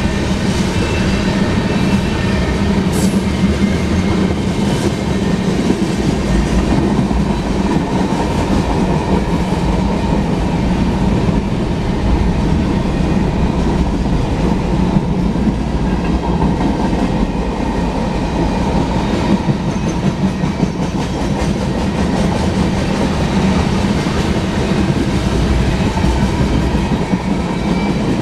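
Freight cars of a long manifest train rolling past steadily, with wheels clacking over the rail joints and a continuous rumble.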